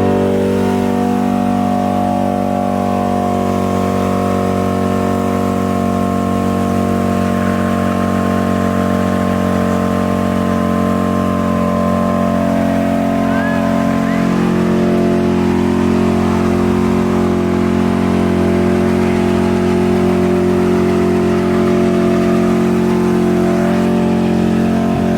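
A vehicle engine running loudly at steady, unchanging revs, with only a slight shift in its tone about halfway through.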